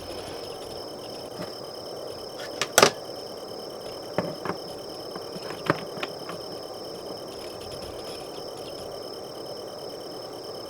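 A steady chorus of crickets and other insects, with a handful of sharp clicks and taps from model-kit handling about three to six seconds in. The loudest click comes near three seconds.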